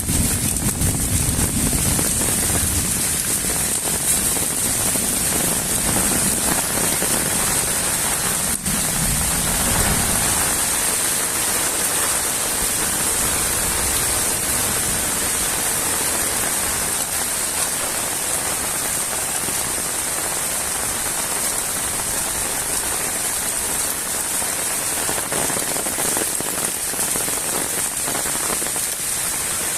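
Steady, fairly heavy rain falling, with a low rumble underneath for the first ten seconds or so.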